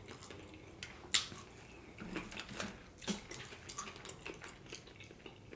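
Quiet wet chewing and mouth sounds of a person eating sushi, with a few sharp clicks, the clearest about a second in and about three seconds in.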